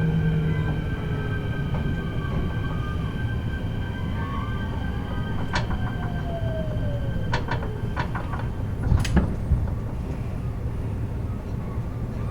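Kintetsu 16600 series electric train heard from inside the car end: the Hitachi-controlled inverter and traction motors whine down in pitch as the train slows, over steady running rumble. Wheels clack over rail joints, in a few clusters, the loudest about nine seconds in.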